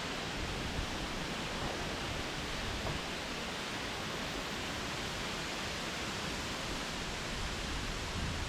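Storm wind rushing steadily through trees, an even hiss.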